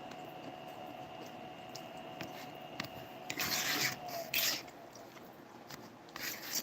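Faint steady hum that stops about four seconds in, with two short rustling, scraping noises of handling just before it stops.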